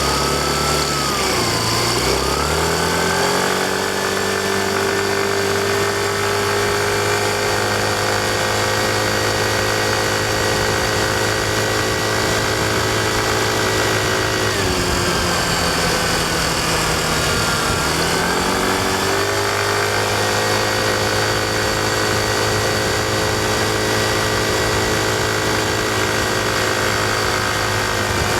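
Yamaha Fazzio scooter's 125 cc single-cylinder engine running under way: it speeds up over the first few seconds, holds a steady pitch, drops back about halfway through, then picks up again and holds steady.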